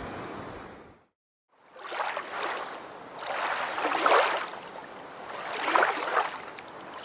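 A steady rush of river water that cuts off about a second in; after a short gap, rushing water noise that swells and fades three times, loudest about four and six seconds in.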